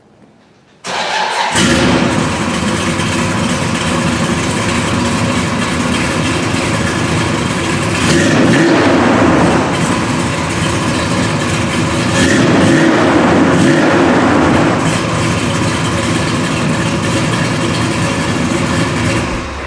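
Big-block Chevrolet V8 (a 454 bored out to 462 cubic inches) in a 1966 El Camino, firing up suddenly about a second in and then running loudly. It is revved up briefly twice along the way.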